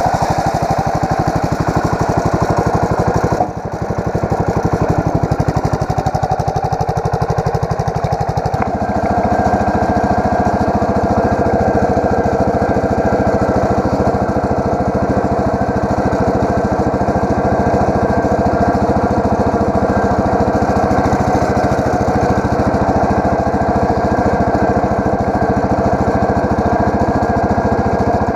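Allis-Chalmers 716H garden tractor engine running steadily. Its sound dips briefly about three seconds in, then settles about eight seconds in into a slightly different, steadier note that holds.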